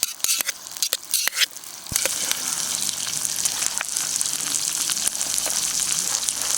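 Steak sizzling on a hot lava stone over a campfire, the steady sizzle starting suddenly about two seconds in. Before that, scattered sharp crackles and pops.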